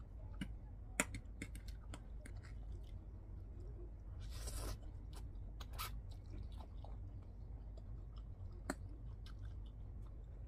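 A person chewing kimchi ramen noodles with water spinach, with sharp wet mouth clicks and smacks and a short slurp a little past four seconds in.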